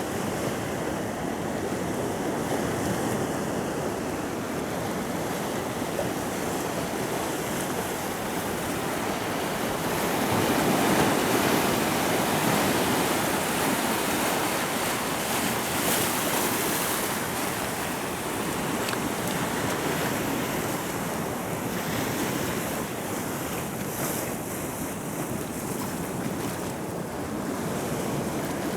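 Sea waves washing in at the water's edge, with wind blowing across the microphone; the wash swells louder about ten seconds in, then settles.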